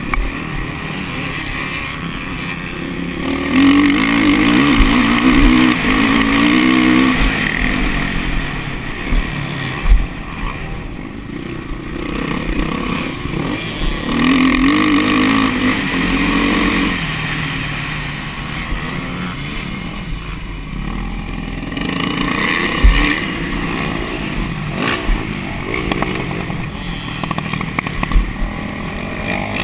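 Motocross bike engine revving up and falling back over and over, with two strong surges of throttle, one a few seconds in and one about halfway, and a couple of sharp knocks between them.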